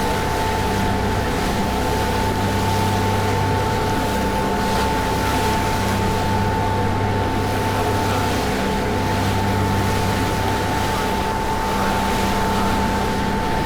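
A passenger ferry's engines running steadily while under way: a low drone with a constant high whine above it, over the hiss of wind and rushing water.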